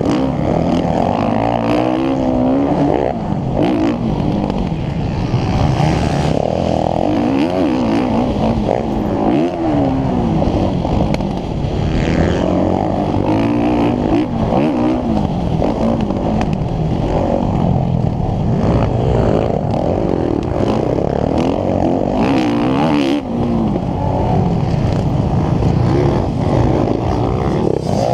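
Motocross bike engine under race load, its revs rising and falling over and over as it accelerates and backs off around the track.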